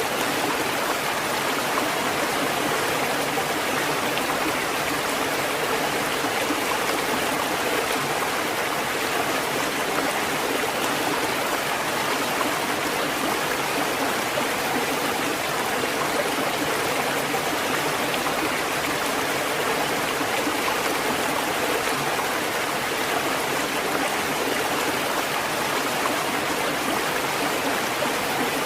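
Steady rushing water, an even unbroken hiss with no rise and fall of separate waves.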